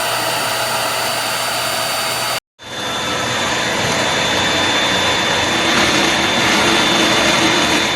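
Corded bagless upright vacuum cleaner running with a steady whirring hiss. It cuts out completely for a moment about two and a half seconds in, then runs on slightly louder.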